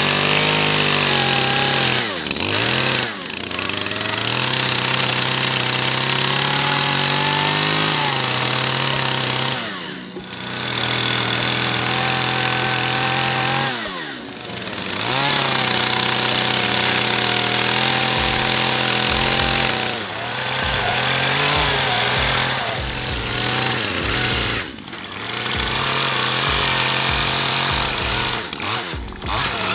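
Chainsaw cutting through the boards of a wooden shipping crate, running at high revs and dropping back briefly about five times between cuts.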